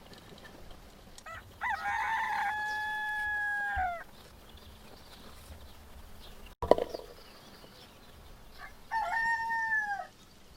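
A rooster crowing twice: a long, held crow that drops in pitch at the end, then a shorter falling crow near the end. A short sharp knock falls between them.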